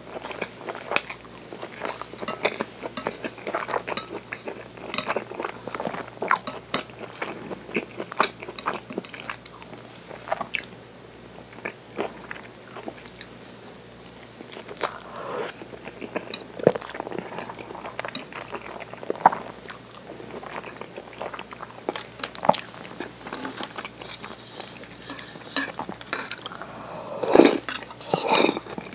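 Close-miked chewing and biting of okonomiyaki, a cabbage and pork pancake, with many small wet mouth clicks. Near the end comes a sip of egg soup from a bowl.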